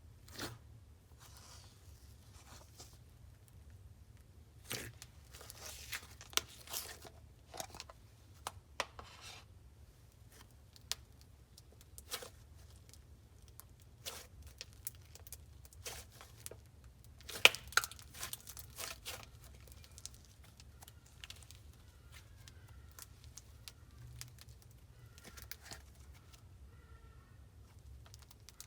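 Slime being stretched, squeezed and poked by hand, giving off faint irregular sticky crackles and pops, with a sharper pop about two-thirds of the way in.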